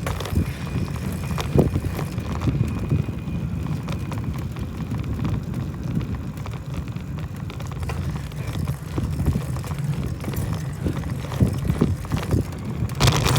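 Wind rushing over the microphone while riding a bicycle, a steady low rumble with a few scattered knocks from the bike over the ground.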